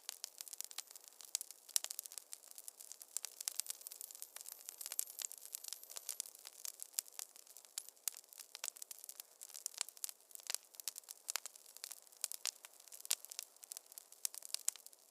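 Wood fire crackling in a fireplace: dense, irregular pops and snaps, several a second, over a soft hiss.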